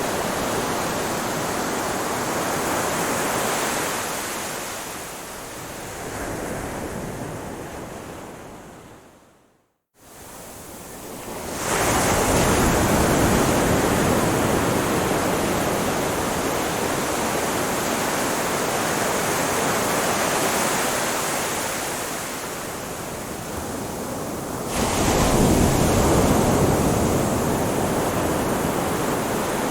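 Ocean waves washing on a shore, a steady hiss of surf that swells and ebbs. About ten seconds in it fades out to a moment of silence, then fades back up, and near the end a wave swells louder.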